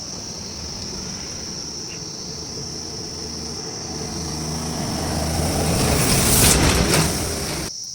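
A motor vehicle's engine grows steadily louder, peaks near the end and then cuts off abruptly. Insects chirp steadily throughout.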